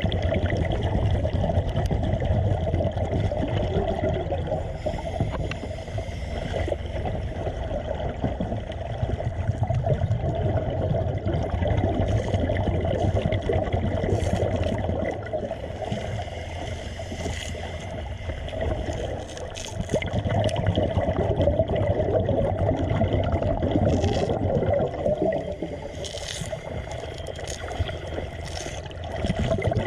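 Water gurgling and bubbling, uneven and continuous, with scattered sharp clicks.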